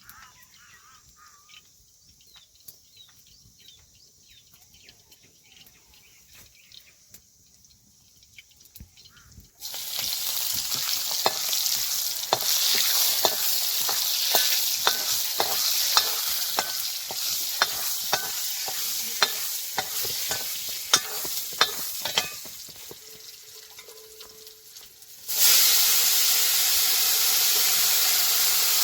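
Food frying in a pan, a loud sizzling hiss that starts suddenly about a third of the way in, with frequent sharp clicks and scrapes of a utensil stirring against the pan. It eases for a few seconds, then comes back as a loud steady hiss near the end. Before the frying there is only faint background with small chirps.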